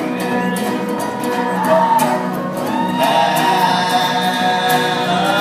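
Acoustic folk band music: strummed and plucked strings under several voices holding sung notes.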